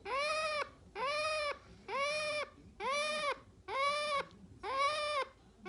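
Sun conure calling in a steady series: six pitched, arching calls, each about half a second long, about one a second.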